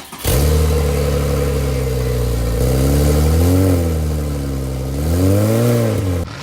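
Porsche 997.1 911 Turbo's twin-turbo flat-six, through a Tubi Style exhaust, catching on a cold start and running at a loud fast idle. The pitch swells up and back down twice, once about halfway in and once near the end, before the sound cuts off suddenly.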